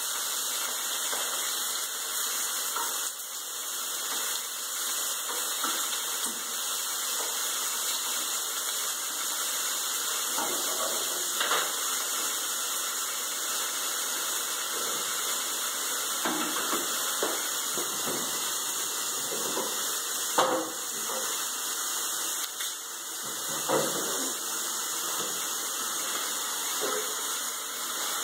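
Chicken pieces frying in a little oil in a non-stick pan, a steady sizzling hiss, with a few short knocks of the pan or utensils now and then.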